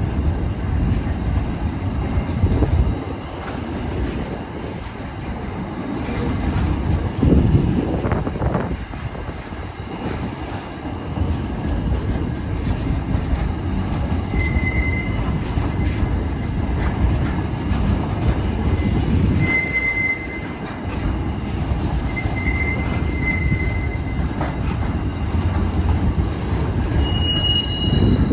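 Part-loaded grain wagons rolling past with a steady rumble and clatter of wheels on rail. Short, high wheel squeals come several times from about halfway through, with a higher one near the end.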